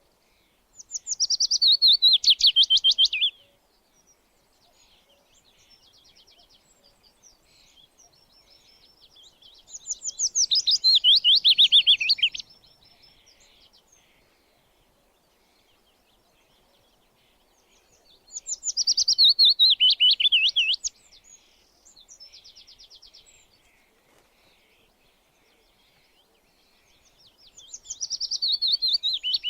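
A songbird sings the same song four times, about every nine seconds. Each song is a fast trill of chirps that falls in pitch and lasts two to three seconds. Fainter chirping comes in between the songs.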